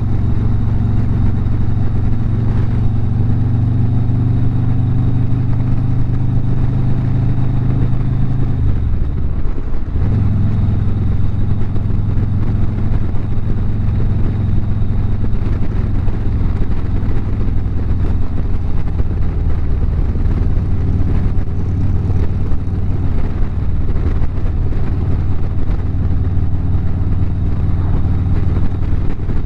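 Harley-Davidson V-twin motorcycle engine running steadily at highway cruising speed. About nine seconds in, the engine note dips sharply for about a second, then settles at a slightly lower, steady pitch.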